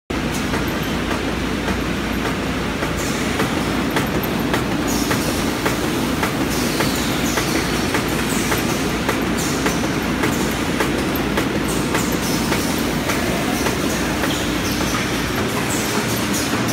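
Paper cross-cutting machine running: a steady mechanical hum with rhythmic clicking about twice a second, joined from about three seconds in by short high falling swishes roughly once a second.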